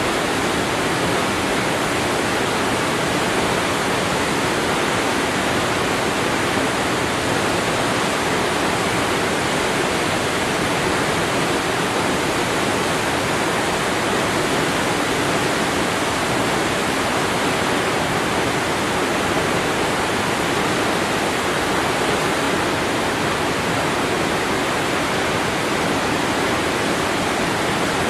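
Waterfall: a steady, even rush of falling water with no pauses or changes.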